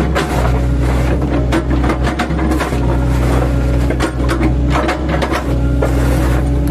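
Diesel engine and hydraulics of an 8-ton class excavator working steadily under load while its blade-fitted bucket chops oil palm trunks, with repeated irregular cracking and crunching of the fibrous wood.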